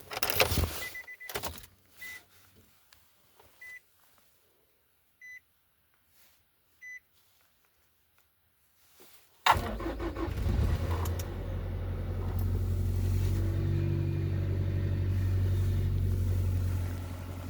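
A few short, evenly spaced electronic beeps, then near quiet, then about nine and a half seconds in the 2006 Nissan X-Trail's four-cylinder engine starts from cold and runs steadily, easing down slightly near the end.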